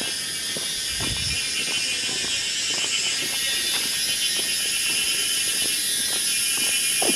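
A steady, dense chorus of insects buzzing and trilling high-pitched, with scattered faint taps underneath.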